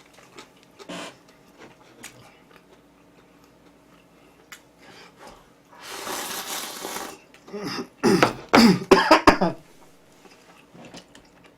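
A person coughing and clearing the throat in several quick bursts near the end, after a breathy hiss of about a second and a few faint clicks of eating.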